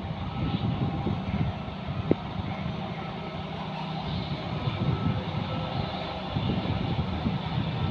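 John Deere 5210 tractor's diesel engine running steadily with a rough, pulsing low rumble, pulling a Shaktiman rotavator through mud. A single sharp tick comes about two seconds in.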